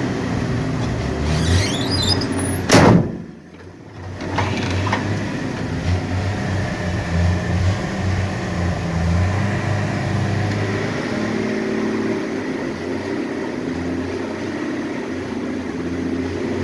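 1966 Ford F100 engine running steadily. About three seconds in there is a short squeak, then a single loud thump.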